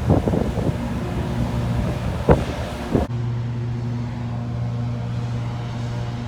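Wind buffeting the microphone, with a couple of sharp knocks. About three seconds in it cuts to a steady low drone of a ferry's engines.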